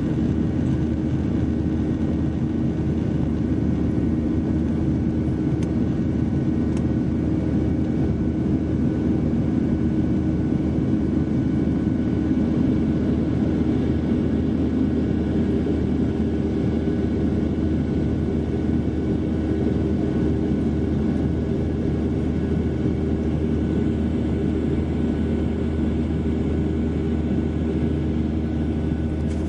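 Airliner's jet engines and airflow heard inside the cabin as a steady, unchanging rumble and hiss with a constant low hum.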